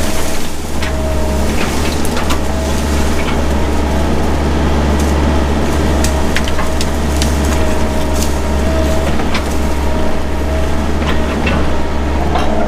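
Mini excavator engine running steadily under load, with a steady whine over its low hum. Scattered sharp cracks of brush and branches snapping as underbrush is cleared.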